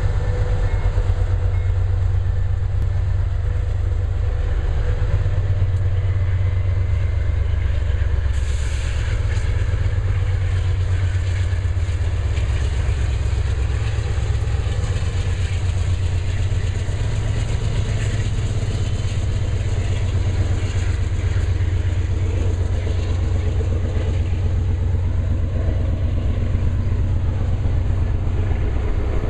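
Freight train led by two GE C44-9W diesel locomotives working under load, a steady heavy low rumble. After several seconds the wheel and rail noise rises sharply and runs on as the locomotives and then loaded tank cars roll past.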